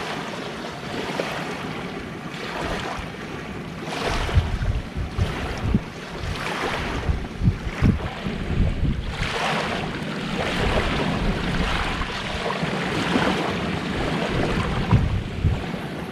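Sea waves washing onto the shore in slow swells every few seconds, with wind buffeting the microphone.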